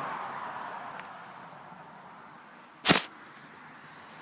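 Low background hiss, with one sharp click just under three seconds in.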